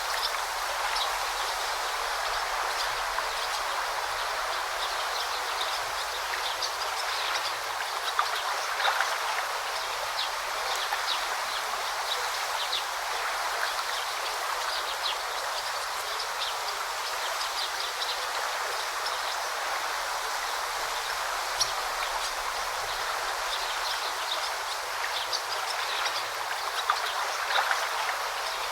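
Forest river running over rocks: a steady rushing babble of water with many small splashes and gurgles.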